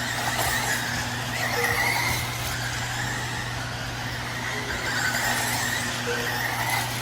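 Losi 22S electric RC sprint cars running on a dirt oval: the motors' high whine rises and falls in pitch as the cars accelerate and lift through the turns.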